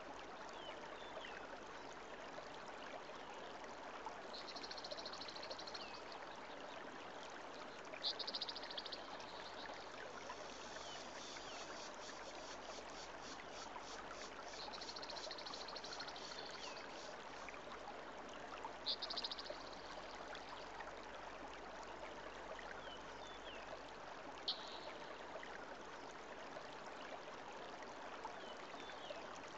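Steady sizzling of potato slices frying in tomato masala in a kadai, with a few short scrapes of the stirring spoon against the pan.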